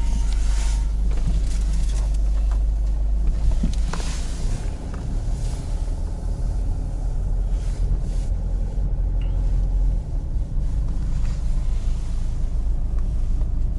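A car's steady low rumble, with several bursts of hiss in the first few seconds.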